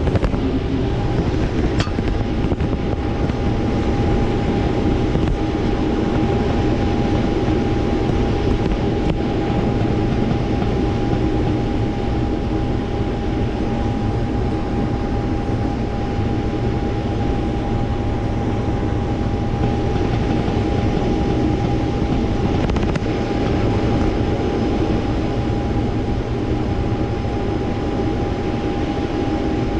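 Combine harvester running steadily while harvesting corn: a constant machine drone with a thin, steady whine above it.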